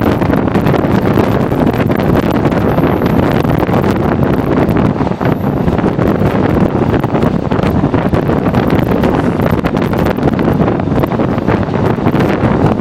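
Loud, steady rush of wind buffeting the microphone over the rumble of a moving passenger train, with crackling knocks throughout.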